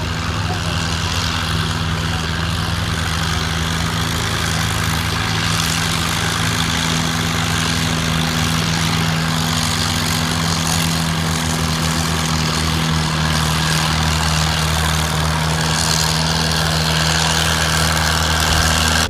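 Farm tractor engine running loud and steady at an even speed.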